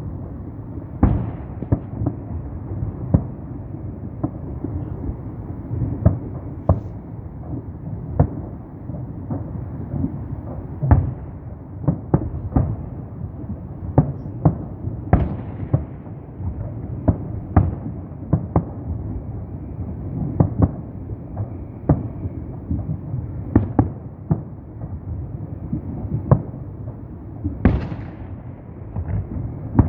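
Fireworks salute: shells bursting in an irregular series of sharp bangs, roughly one every second or so, over a continuous rumble of further booms. One of the loudest bursts comes near the end.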